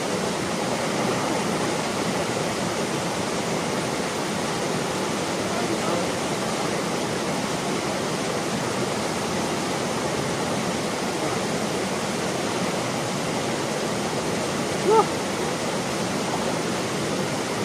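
Waterfall pouring into a deep pool: a steady rush of falling water, with one short, sharp sound about fifteen seconds in.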